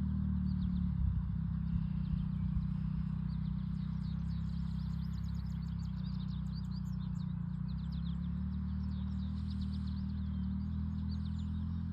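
Dirt bike engine idling steadily at low revs, with many birds chirping over it.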